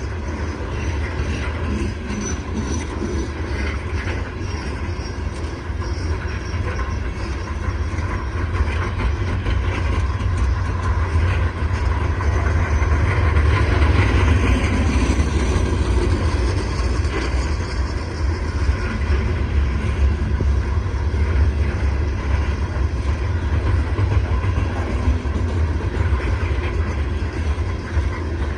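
A CSX coal train's cars rolling past at steady speed: a continuous heavy rail rumble that swells a little midway.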